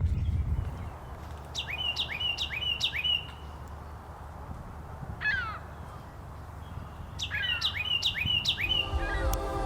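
Carolina wren singing: two bouts of one phrase repeated quickly four or five times, about five seconds apart, with another short bird call between them.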